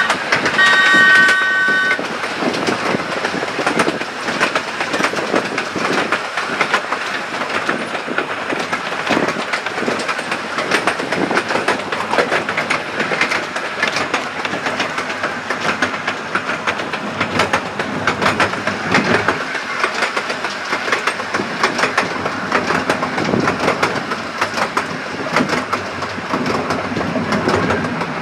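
Miniature railway train riding along, its wheels clattering steadily over the track. A whistle sounds for about the first two seconds.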